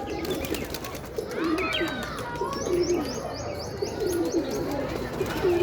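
Domestic pigeons cooing over and over, several calls overlapping. Brief, higher chirps from other birds come in around the middle.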